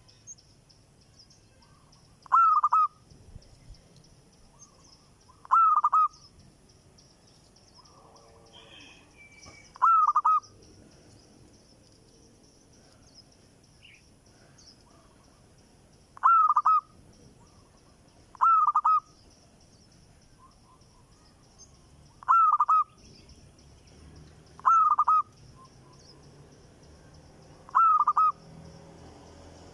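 A bird giving short, loud calls, eight in all, spaced every two to six seconds, each a quick group of two or three falling notes, over a faint steady high-pitched hiss.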